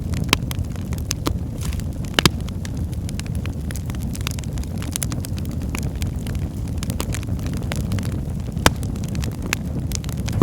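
Wood logs burning in a fireplace: a steady low rumble of flames with frequent sharp crackles and pops, two louder pops about two seconds in and again late on.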